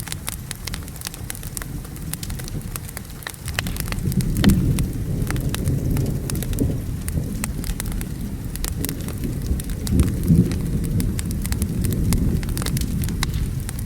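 Steady rain with low, rolling thunder that swells about four seconds in and again about ten seconds in, over the sharp crackles and pops of a wood fire.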